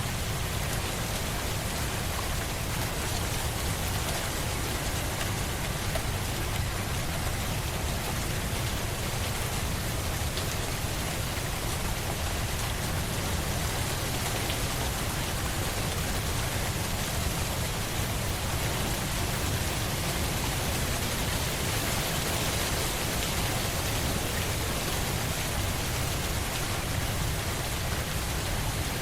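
Steady rain falling on a surface, an even dense hiss with a strong low rumble underneath and no distinct drops or thunder.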